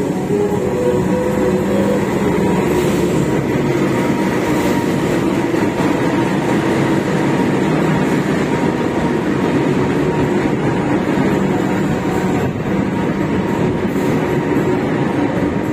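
Diesel-electric locomotive pulling a passenger train out along the platform, its engine running steadily as it passes, followed by the coaches rolling by on the rails.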